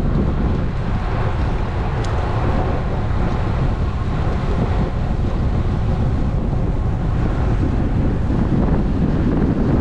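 Steady wind rush buffeting an action camera's microphone on a moving road bike.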